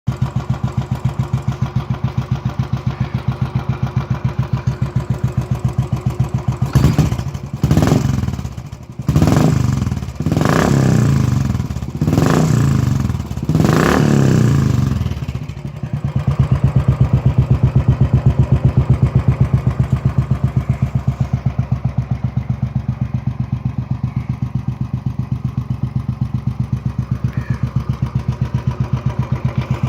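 Royal Enfield Classic 350's single-cylinder engine through an aftermarket MotoTorque Launcher exhaust, idling with an even thumping beat. About a quarter of the way in it is revved in a series of five or so short throttle blips, then it drops back to a steady idle for the second half.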